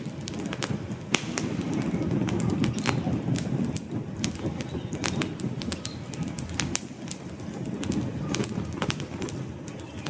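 Wood fire crackling: frequent sharp pops and snaps over a low, steady rumble of burning flames.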